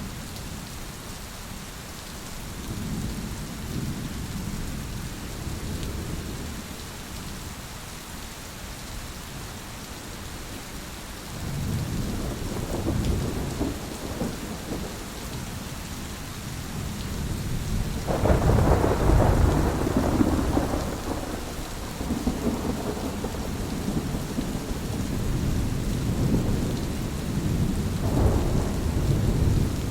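Steady rain with thunder rolling several times; the loudest clap breaks suddenly about two-thirds of the way through and rumbles for a few seconds.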